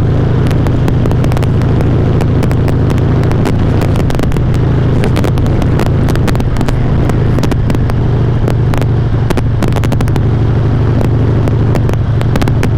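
Harley-Davidson V-twin engine running at a steady cruise, picked up by a helmet-mounted mic, with frequent crackles throughout. The crackles are the distortion of the overloaded, clipping mic.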